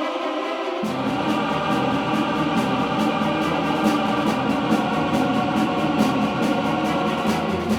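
Marching carnival jazz band playing: a massed chorus of kazoos over a regular drum beat, with the bass coming in about a second in.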